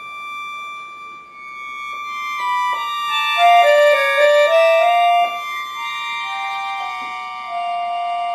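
Bayan (Russian button accordion) playing held chords, with a short stepwise melody moving in the middle voice about three to five seconds in.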